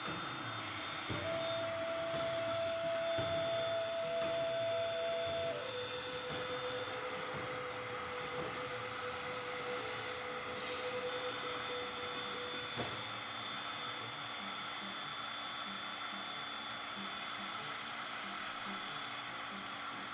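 An electric power tool's motor running steadily with a whine, as used for grinding or sanding rust off a blade. The whine shifts pitch in the first few seconds, and there is one sharp click a little past halfway.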